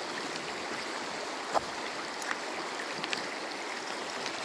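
Stream water running steadily, with a few small splashes and drips, one louder plop about a second and a half in.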